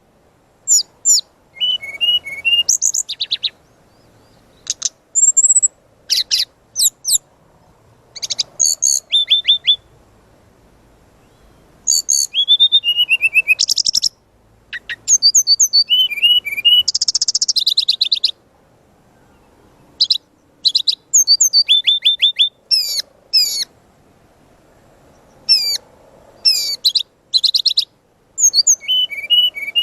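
Brown-chested jungle flycatcher singing: rapid, varied phrases of high whistled notes, sweeps and trills, each one to three seconds long with short pauses between them.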